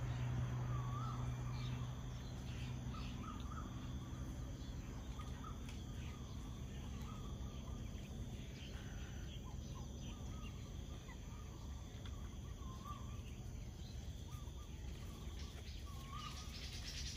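Outdoor ambience: a low steady background noise with short warbling bird calls every second or two, and a few faint clicks.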